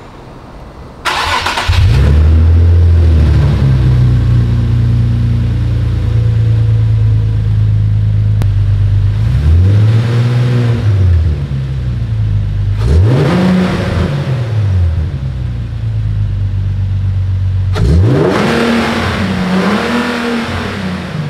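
Car engine starting about a second in and settling into a steady idle, then revved up and let fall back four times in the second half, each rev rising and dropping smoothly. This is the test run after the throttle body has been cleaned: the engine holds its idle and picks up without hesitating.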